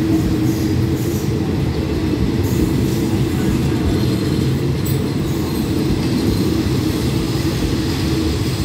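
SRT special express passenger train carriages rolling steadily past along the station platform, giving a continuous deep rumble of wheels on rails.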